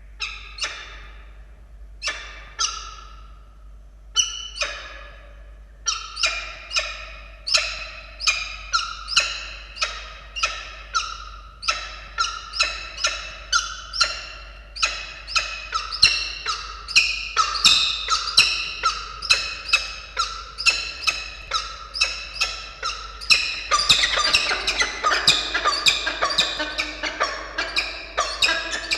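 Peregrine falcons calling at the nest ledge in bonding: sharp repeated calls, a few spaced ones at first, then about two a second, thickening into dense chattering near the end.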